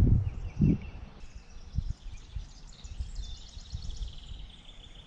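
Low rumbling thumps in the first second, then songbirds chirping in rapid, repeated high trills.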